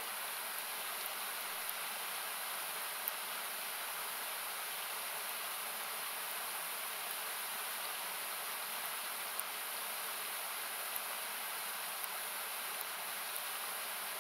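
Steady rushing of a river or small cascade that sounds like hiss, with the faint, scattered crackles of a wood campfire popping now and then.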